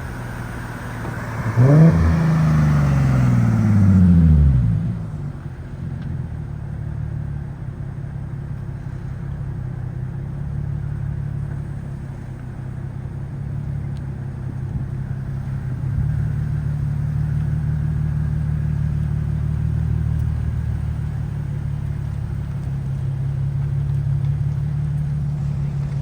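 Infiniti G37S's 3.7-litre V6 breathing through a freshly fitted ISR single-exit exhaust with Y-pipe and no resonator. It is revved once about two seconds in, the pitch rising sharply and falling back over a couple of seconds, then it idles steadily.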